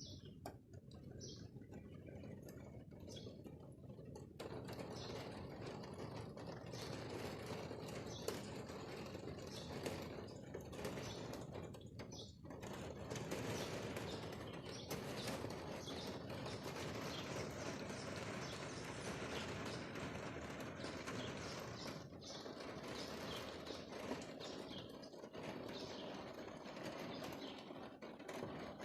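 Rain falling steadily, thickening into a dense hiss of drops about four seconds in, with small birds chirping through it.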